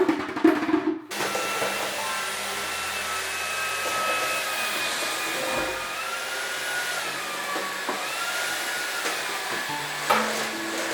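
Vacuum cleaner running steadily after starting about a second in, its motor whine drifting up and down in pitch as it works.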